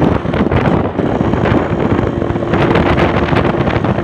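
Yamaha RX-King two-stroke motorcycle riding at road speed, its engine and exhaust mixed with heavy wind buffeting on the microphone.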